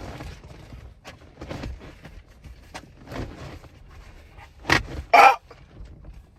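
Cloth seat cover being stretched and tugged over a car seat: repeated rustling and scraping of fabric, with two louder sharp bursts about five seconds in.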